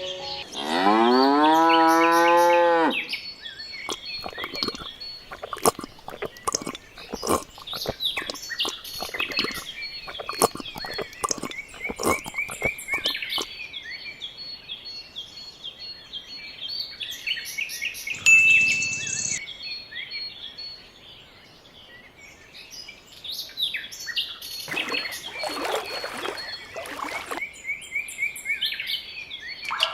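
A cow moos once, a long call rising in pitch, about a second in. It is followed by birds chirping over a rural ambience, with many short clicks and taps.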